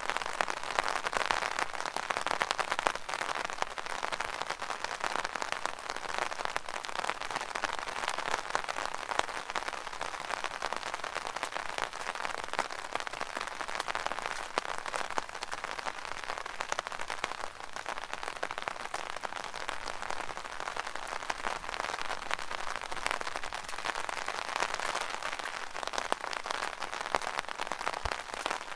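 Rain falling on an umbrella: a steady, dense patter of drops striking the canopy overhead.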